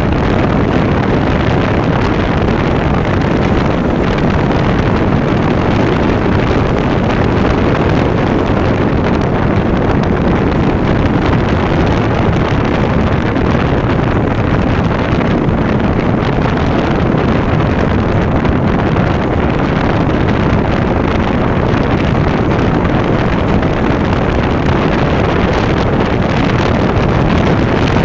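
KTM Duke motorcycle running at a steady pace on the road, its engine and exhaust heard from the rider's chest-mounted phone, mixed with wind noise on the microphone.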